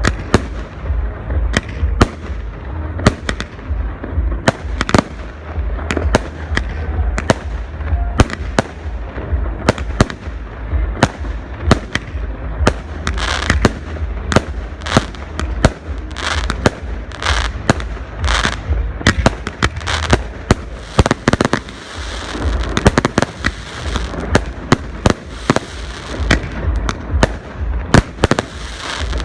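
Fireworks display: a rapid run of shell bursts, several sharp bangs a second, echoing, with crackling between them and a steady low rumble underneath.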